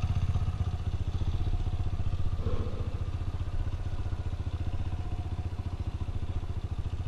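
Single-cylinder four-stroke trail motorcycle engine idling with a steady, rapid, even thumping.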